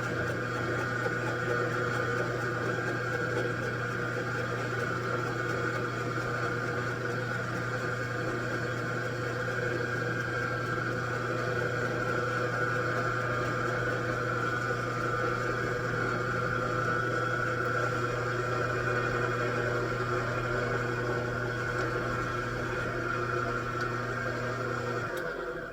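Machine tool running steadily with an even motor hum and whine, then switched off and falling quiet near the end.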